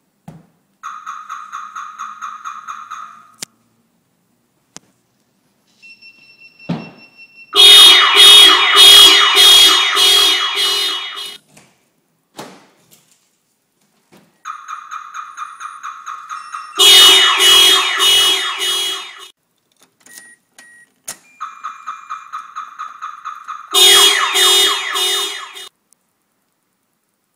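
VIPER car security alarm siren sounding in three cycles. Each cycle is a couple of seconds of quick, even beeps, about four to five a second, then a louder, harsher pulsed siren lasting a few seconds, with short pauses between the cycles.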